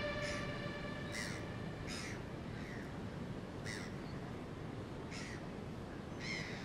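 A bird calling repeatedly in short, harsh calls about once a second over a steady low background of outdoor ambience. Sustained music tones fade out in the first second.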